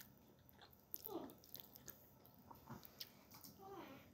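Faint chewing while eating rice and chicken curry, with a few soft, scattered clicks.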